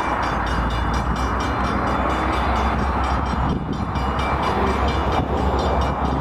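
Approaching diesel freight train: a steady low locomotive engine rumble under a broad rushing noise.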